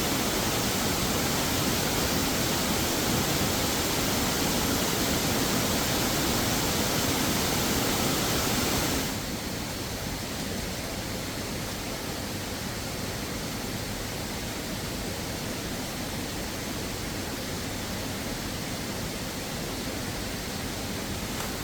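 Steady rushing of a waterfall. About nine seconds in it suddenly drops to a lower, duller rush.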